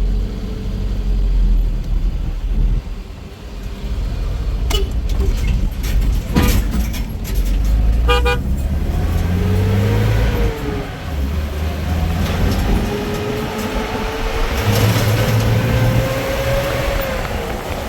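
Motor vehicle engine running, its pitch rising and falling, with a short horn toot about eight seconds in.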